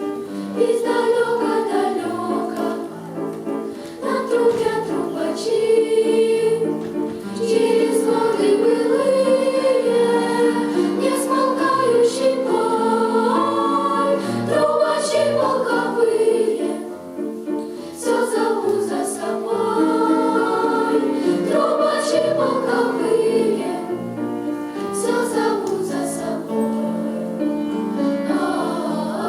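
A choir singing a song, several voices together, with no break.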